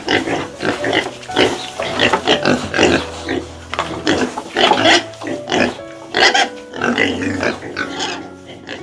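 Pig grunting in many short, rapid calls over background music.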